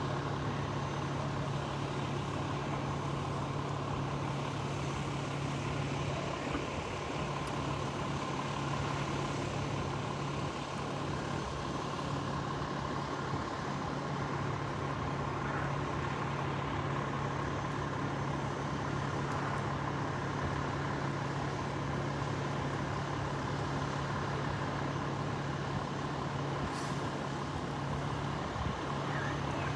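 A large truck engine, likely a fire engine at the fire, running steadily with an unbroken low hum and a higher steady whine.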